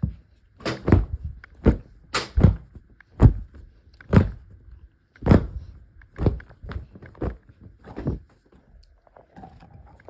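A string of about a dozen dull thuds and knocks at an uneven pace, then a few fainter ones near the end.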